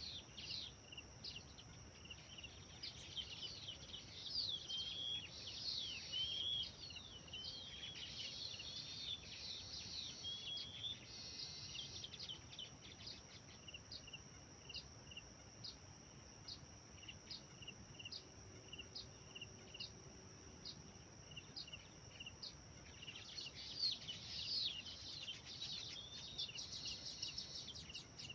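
Birds singing in two flurries of quick, swooping, warbling phrases. Underneath runs a steady high-pitched drone and a short high chirp repeating about once a second.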